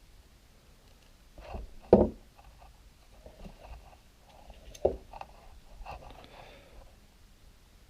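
Small knocks, taps and faint scraping from hands and small tools working a little plastic toy part on a work surface, with two sharper knocks, about two seconds in and near five seconds.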